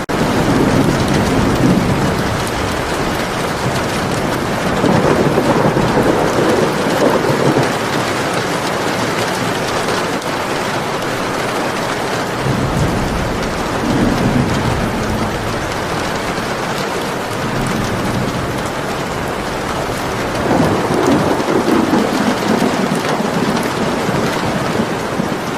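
Steady rain falling, with thunder rolling in low rumbles four times over it, each lasting a couple of seconds.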